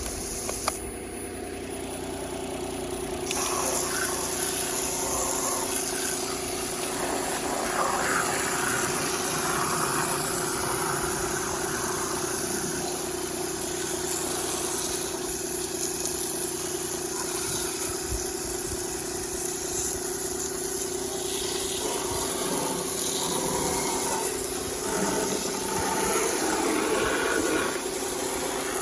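Nissan Note e-POWER's 1.2-litre three-cylinder engine running steadily as its generator, and from about three seconds in a hissing water spray over the engine bay.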